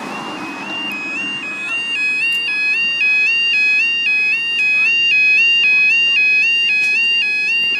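Level crossing warning alarm: a two-tone warble stepping back and forth between a high and a low note, getting louder over the first two seconds and then going on steadily. Traffic noise fades away at the start.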